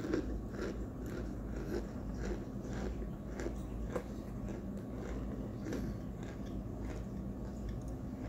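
A person chewing chunks of homemade cornstarch close to the microphone, with a steady run of crunches, about two or three a second.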